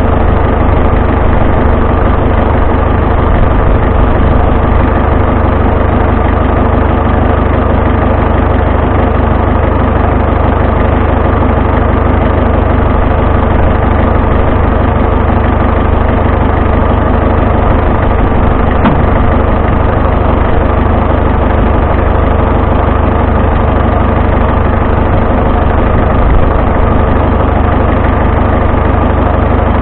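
Vintage farm tractor engine running loudly and steadily at a constant speed.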